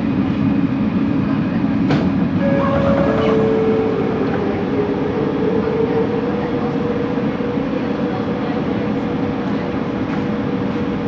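Bombardier Innovia ART 200 metro train running, heard from inside the car: a steady low rumble from the running gear, with a linear induction motor tone that comes in about three seconds in and holds, slowly rising in pitch. A single sharp click sounds about two seconds in.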